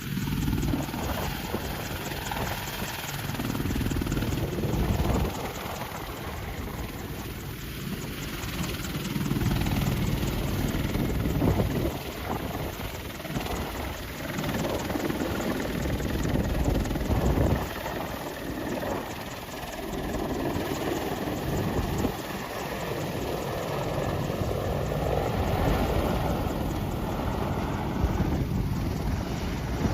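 Helicopter in flight, its rotor and engine noise swelling and fading several times.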